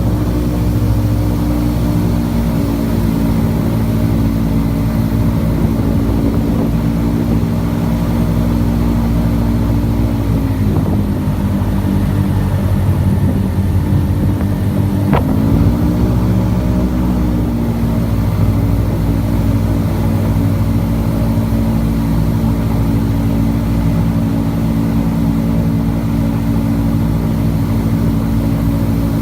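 Airboat engine and propeller running loudly and steadily. The engine note drops about ten seconds in and climbs back up about five seconds later as the throttle is eased off and opened again, with a sharp click just before the rise.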